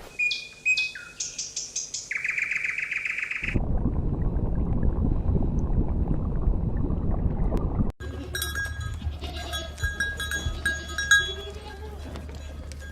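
Animal calls: high, rapid chirping at first, cut off by a few seconds of loud rushing noise, then a mix of short gliding calls over a steady hum.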